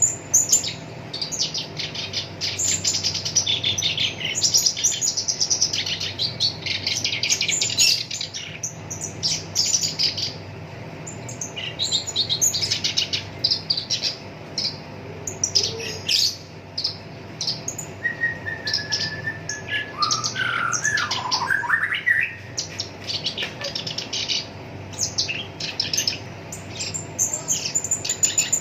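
Black-browed reed warbler singing a fast, harsh chattering song of dense, rolling note runs, with short pauses between phrases. About two-thirds through comes a lower whistled phrase that wavers and falls. A faint steady hum runs underneath.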